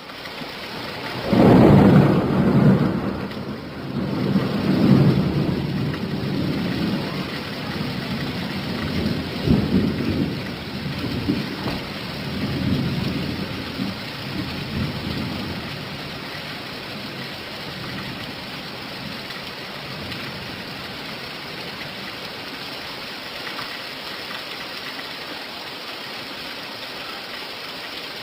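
Steady rain with a long roll of thunder that breaks loud about a second in, then rumbles on in several swells and fades out by about halfway through, leaving the rain hiss alone.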